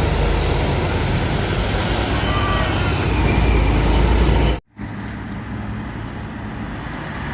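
Truck engine and road noise running loud and low, with a thin high whine over it. It cuts off abruptly about four and a half seconds in, followed by quieter, steady traffic noise.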